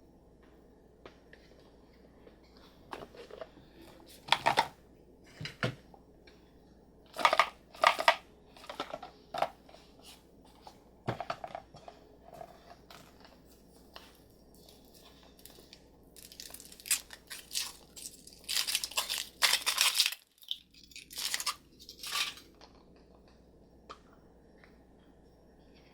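Packaging being torn open and crinkled by hand, in short irregular bursts of tearing and rustling.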